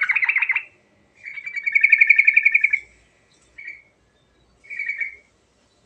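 Yellow-vented bulbul (trucukan) singing its rolling song: rapid bubbling trills with about a dozen pulses a second. A long phrase comes about a second in, and two short notes follow near the end.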